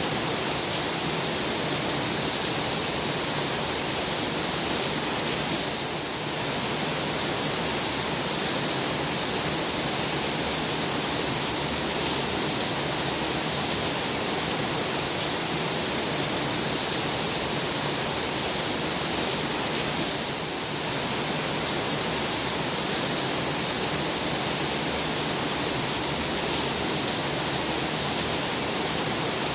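Heavy rain falling in a steady, dense hiss, dipping slightly in level twice, about six seconds in and about twenty seconds in.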